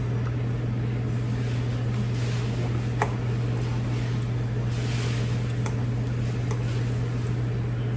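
Steady low hum with a few light clicks about three, five and a half, and six and a half seconds in.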